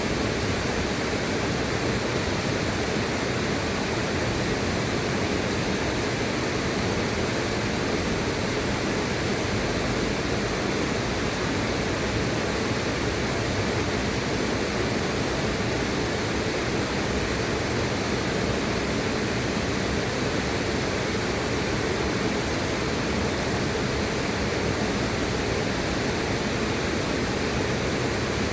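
Flowing river water: a steady, even rushing with no breaks.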